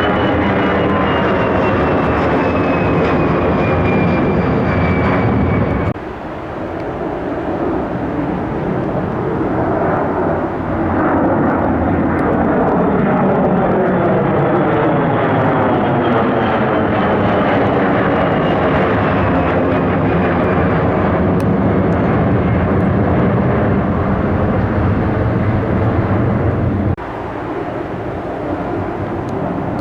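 Airplane engines running loud and steady as aircraft pass close by, with a high whine that slowly falls in pitch. The sound cuts off abruptly about six seconds in and again near the end, where one plane's pass gives way to another.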